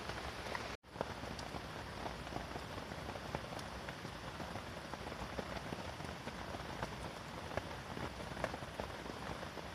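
Steady rain falling on a canvas tent, an even hiss with scattered individual drop ticks. It cuts out for an instant just under a second in.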